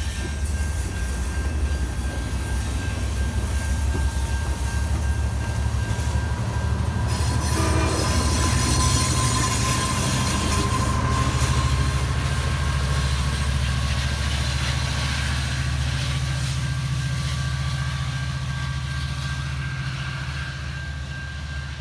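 Amtrak diesel passenger train running through the station: a steady low locomotive engine drone with rolling rail noise and a thin, high wheel squeal. It eases off slightly near the end.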